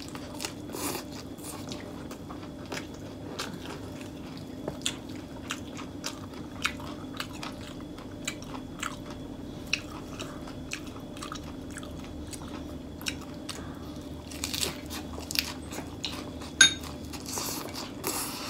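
Close-miked chewing of a mouthful of fresh lettuce wrapped around rice noodles and wagyu beef rolled in lá lốt (betel) leaves: crisp leafy crunches and wet mouth clicks throughout. A faint steady low hum runs underneath, and there is one sharper click near the end.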